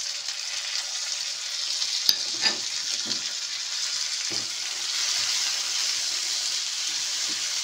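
Diced tomatoes and green chilli sizzling in hot mustard oil in a non-stick frying pan as they are stirred with a silicone spatula, with a sharp tap about two seconds in.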